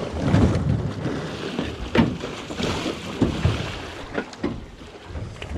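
Wind buffeting the microphone and water noise aboard a small fishing boat, with a few sharp knocks, the clearest about two seconds in.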